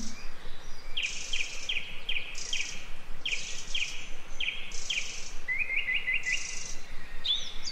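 Forest birds singing: repeated phrases of quick, short chirps, with a run of rising notes about two thirds of the way through, over a steady background hiss.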